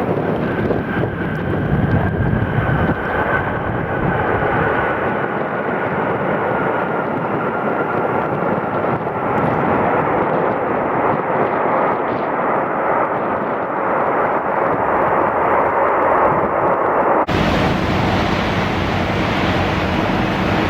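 Large jet airliner passing low on landing approach: loud, steady jet noise with an engine whine that slowly falls in pitch. About seventeen seconds in, the sound cuts abruptly to a different steady noise.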